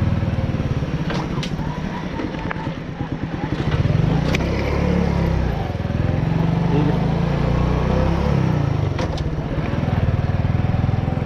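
Motorbike engine running as the bike is ridden. Its note drops about two seconds in and picks up again about four seconds in, with a few sharp clicks along the way.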